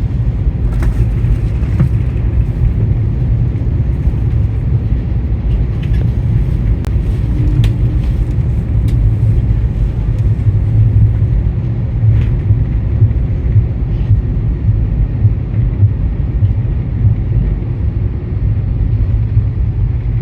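Airbus A330-200 airliner rolling on the ground after landing, heard from inside the cabin: a loud, steady low rumble with a few light clicks and rattles.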